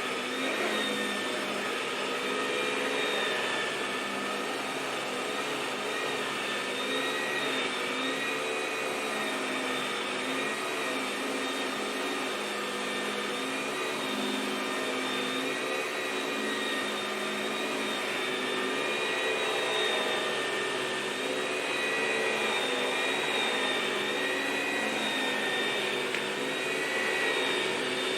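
Vacuum cleaner motor running steadily, a continuous whooshing drone with a slightly wavering whine.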